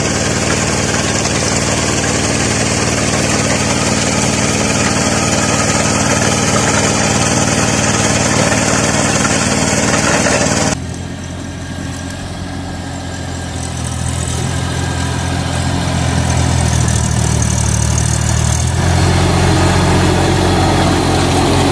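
Tractor engine running steadily. About halfway through, the sound changes abruptly to a quieter, lower engine note that grows louder again toward the end.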